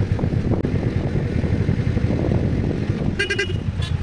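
Steady low vehicle rumble with a short horn toot about three seconds in, followed by a second, briefer toot.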